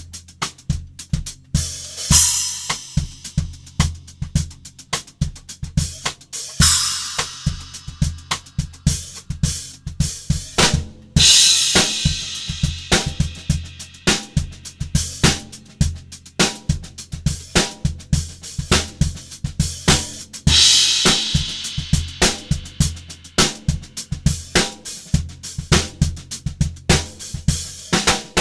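Drum kit played in a steady groove through Omete cymbals, with ringing crash-cymbal hits every few seconds over the snare, kick and hi-hat.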